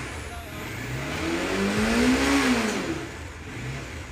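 Bajaj Dominar 400's single-cylinder engine revved once, rising for about a second and a half and then dropping back to idle. It runs with a strong vibration that the owner says comes from inside the fuel tank, cause unknown to him.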